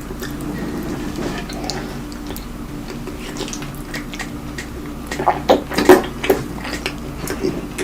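Wet, messy mukbang-style eating: chewing and lip-smacking with squelchy clicks, growing louder and denser past the middle.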